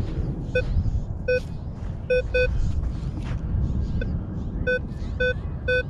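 Minelab Vanquish 440 metal detector giving short, identical mid-pitched beeps, about eight of them at uneven intervals, as the coil is swept over a target in the sand. A steady low rumble, from the plane overhead, runs underneath.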